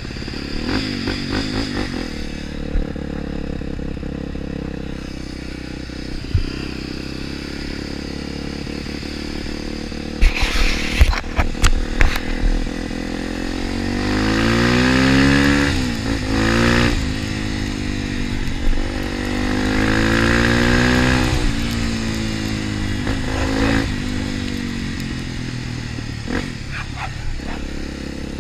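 Trail motorcycle engine running and revving, its pitch climbing and falling in two long pulls in the middle, with a run of sharp clattering knocks just before the first.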